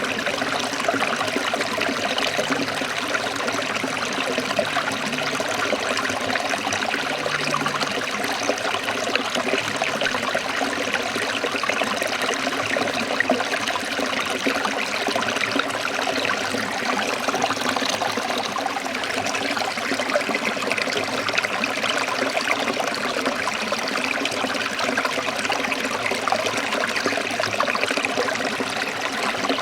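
A small stream trickling and splashing over rocks, a steady rush of running water.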